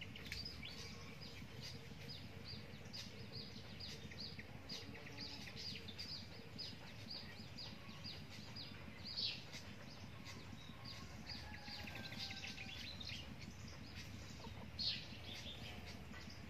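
Birds chirping: a rapid run of short, high, downward-slurred chirps, about three a second, through the first half, then two louder single chirps about nine and fifteen seconds in.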